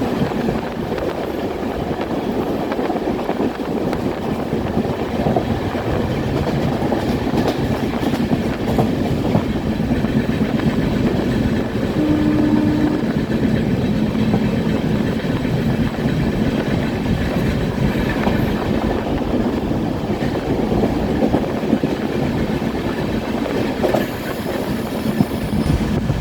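Express passenger train running on the rails, heard from aboard: a steady rumble with the wheels clattering over the rail joints. A brief steady tone sounds a little before the middle.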